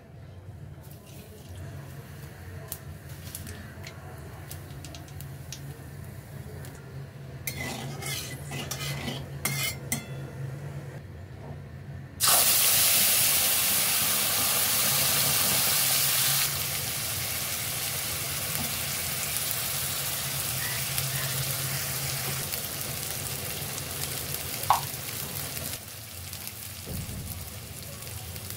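Hot oil in a wok (kadai) crackling faintly. About twelve seconds in, ground masala paste goes into the oil with a sudden loud sizzle that eases after a few seconds into steady frying as it is stirred, with one sharp clink of the spatula on the pan near the end.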